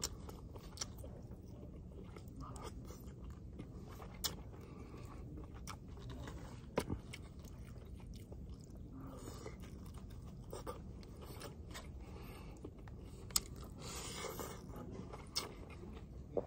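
Quiet mouth sounds of chewing grilled pork chop and rice, over a low steady room hum. About half a dozen light clicks of a plastic fork and spoon against the takeout plate are spread through it.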